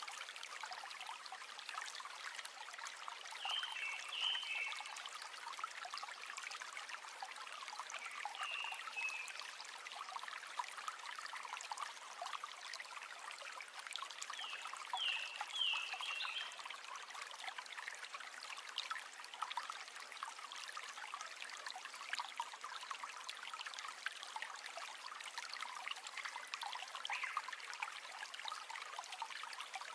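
River water trickling and flowing steadily, with a few short high chirps from an animal scattered through it.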